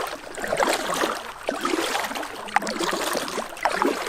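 Paddle strokes in calm water, with water trickling and dripping off the blade, and one sharp tap a little past halfway.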